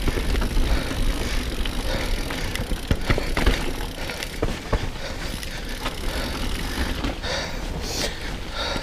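Mountain bike riding over a wet, rough trail: steady tyre and rolling noise with the frame and drivetrain rattling, and scattered knocks from bumps and roots, the loudest a few seconds in, over a low wind rumble on the camera microphone.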